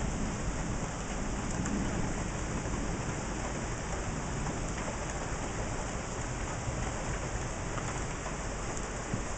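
Steady heavy rain during a thunderstorm, with a low rumble of thunder in the first couple of seconds.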